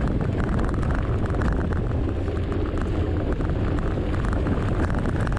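Wind buffeting the microphone of a camera on a moving mountain bike, with a steady low rumble and fine rattling from the tyres running over rough ground.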